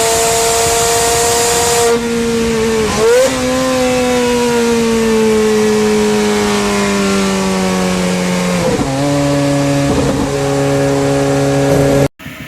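A loud, steady engine-like drone that steps to a new pitch a few times and slowly falls in between, then cuts off suddenly near the end.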